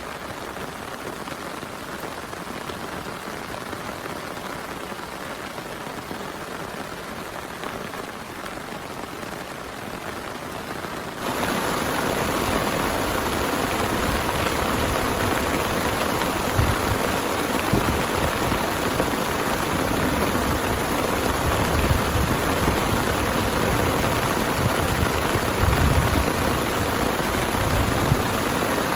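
Heavy rain falling steadily. About eleven seconds in it cuts suddenly to louder, closer rain, with a few dull low thuds mixed in.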